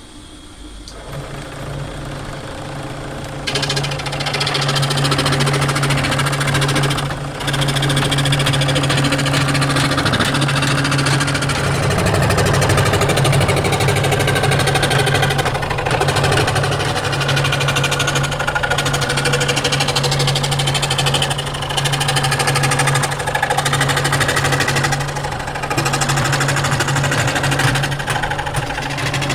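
A woodworking machine's motor starts about a second in and runs with a steady hum, joined a few seconds in by the loud, rough noise of the machine cutting wood, which continues throughout.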